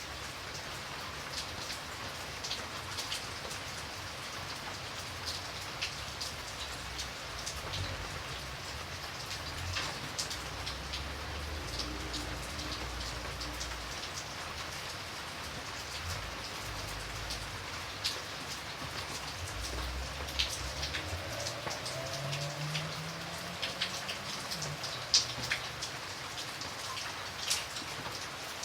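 Steady rain falling, with individual drops ticking sharply and irregularly close by. A faint low rumble comes and goes near the middle.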